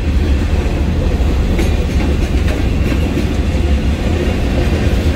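Freight cars, a covered hopper and a centerbeam flatcar, rolling past with a steady heavy rumble and an occasional clack of wheels over rail joints.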